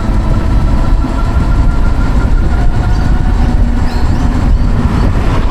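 Savic C3 electric motorcycle on the move: steady wind and road rumble, with a thin, steady whine over it.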